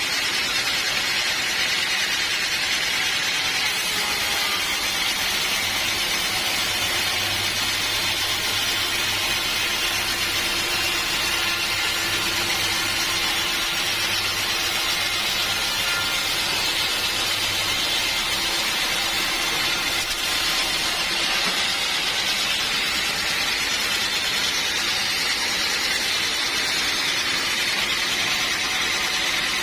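Sawmill machinery running steadily: a loud, even whir and hiss, with a low hum that comes in for a while in the middle.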